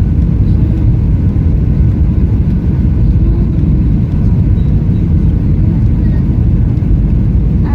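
Airliner cabin noise: a loud, steady low rumble of engines and airflow.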